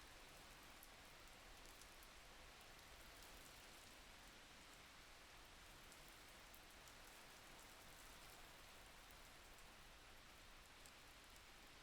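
Faint, steady rain falling, with scattered soft drop ticks.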